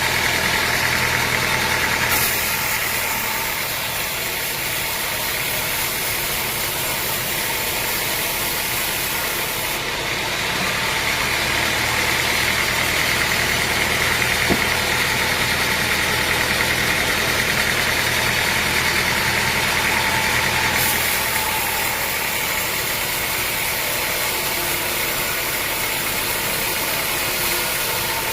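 Sawmill machinery running steadily: a low motor hum under a hissing, high-pitched noise that shifts abruptly in level a few times.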